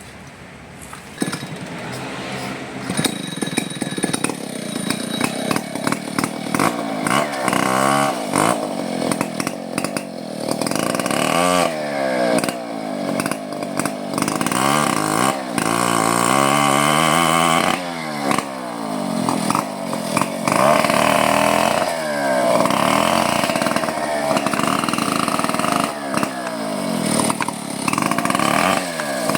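Two-stroke chainsaw running loud from about a second in, its engine pitch repeatedly dropping and climbing again as it is revved and loaded in cutting wood.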